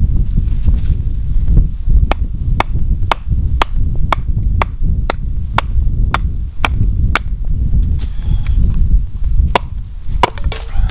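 Hatchet splitting a short log on a chopping block: a run of sharp wooden knocks about two a second, then two more near the end, over a steady low rumble.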